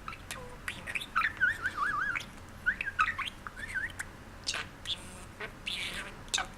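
Male budgerigar chattering: a rapid warble of wavering chirps mixed with sharp clicks.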